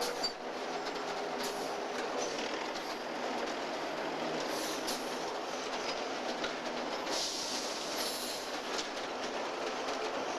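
Rail cars rolling behind USAF Engine 4040, with wheels clicking over the rail joints and brief high squeals from the wheels, the clearest about seven to eight seconds in.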